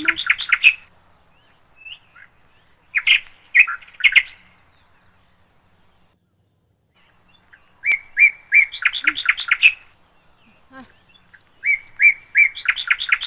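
A songbird singing the same short phrase over and over, about every four seconds: a few evenly spaced notes that quicken into a fast run of higher notes.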